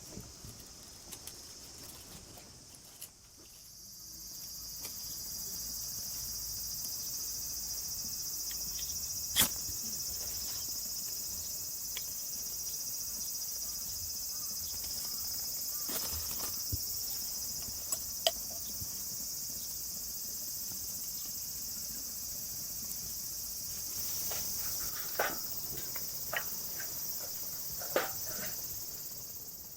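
A steady, high-pitched insect chorus that swells up about four seconds in, with a few sharp clicks and knocks scattered through it, the loudest about nine seconds in.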